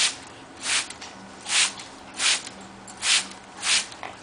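Hand-pumped spray bottle squirting water on pet parrots in a steady rhythm, about six short hissing squirts, a little more than one a second.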